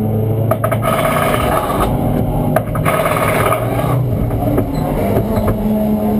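Race-car engine of a BMW E90 Super2000 touring car idling steadily, heard from inside the stripped cockpit, with a few brief sharp clicks in the first few seconds.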